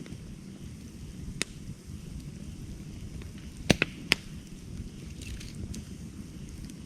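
Wood campfire burning with a steady low rumble of flames and scattered sharp crackles, with a quick run of three loud pops around the middle.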